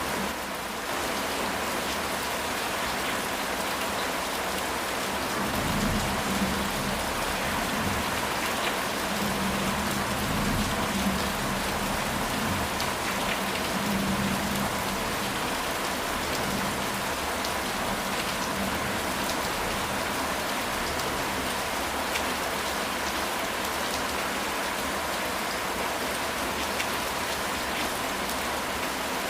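Steady rain falling on a house roof, an even hiss with no break. Between about six and fifteen seconds in, a low rumble of thunder rolls under the rain.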